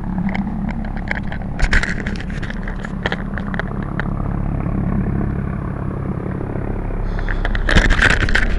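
Police helicopter hovering nearby, a steady low drone of rotor and engine. Crackling handling noise on the microphone cuts in briefly about two seconds in and again near the end.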